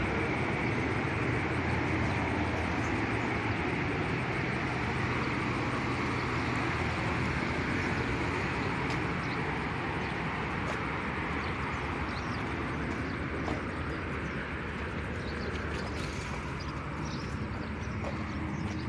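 Steady, distant rumble of vehicle noise, slowly fading away.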